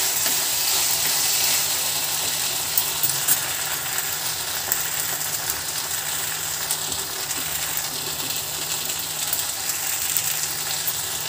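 Chilli chicken sizzling in a wok over a gas flame, a steady hiss, with a few sharp clicks about three seconds in.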